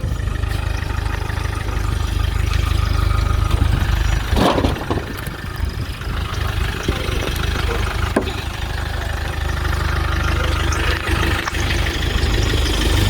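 Car engine running steadily with a deep low rumble, and a couple of sharp knocks about four and eight seconds in.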